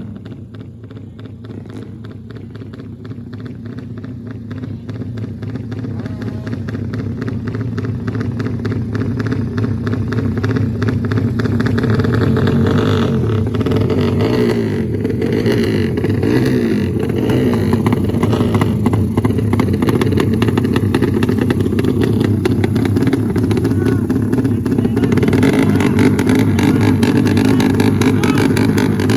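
Motorcycle engines running, growing louder over the first dozen seconds and then holding steady, with crowd voices mixed in.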